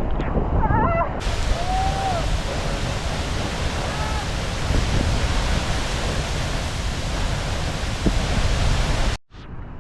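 Waterfall rushing loudly and steadily, heard from right beneath the falling water. It cuts off abruptly near the end, leaving a much quieter outdoor background.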